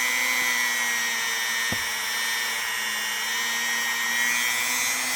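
A small electric power tool runs at a steady speed with a constant whine, working on a small pocket knife. There is one sharp click a little under two seconds in.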